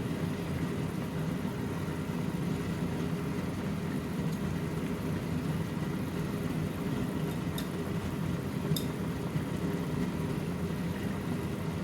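Steady low whirring hum of a running machine, with a few faint light clicks.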